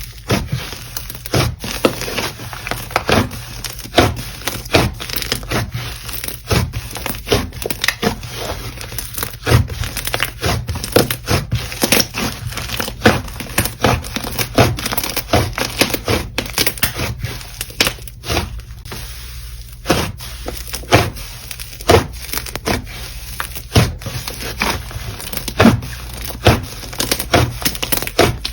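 Slime being squeezed and pressed by hand, giving a dense, irregular run of sharp crackles and pops.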